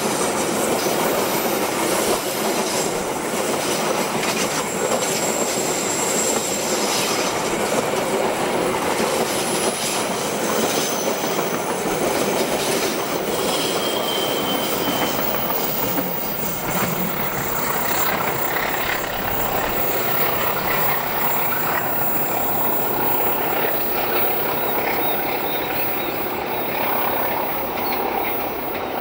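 Passenger train coaches rolling past close by on a curved track: a steady loud rumble of steel wheels on rail with rail-joint clickety-clack, and thin high wheel squeal from the flanges on the curve.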